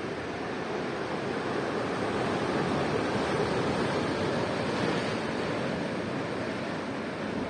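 Sea waves washing in, a steady rushing that swells to its loudest around the middle and eases off toward the end.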